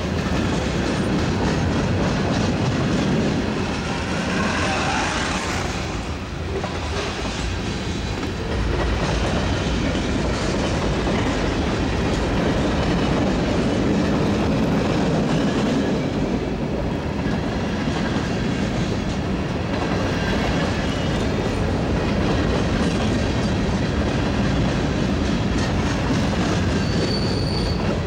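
Freight cars of a long train rolling past close by: a steady rumble and clatter of steel wheels on the rails, with a short high wheel squeal near the end.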